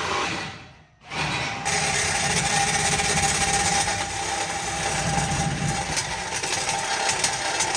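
Power saw cutting through the truck's metal exhaust pipe: loud, steady cutting noise, broken by a short gap about a second in.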